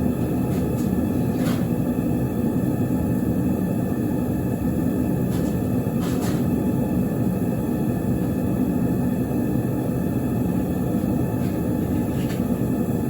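Propane burner of a VEVOR metal-melting furnace running with a steady, even rumble while it heats scrap aluminum in the crucible. A few light clicks sound over it.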